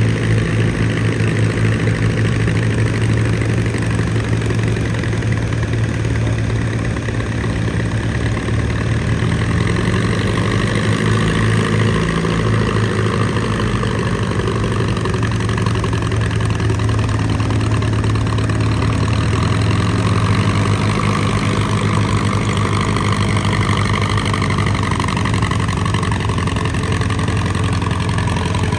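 Antique tractor engine labouring under load, its speed sagging and picking back up a couple of times, with uneven firing from a valve that is trying to stick.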